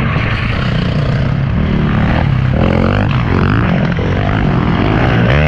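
Off-road vehicle engine running under way, loud and continuous, its note shifting in pitch as the throttle changes.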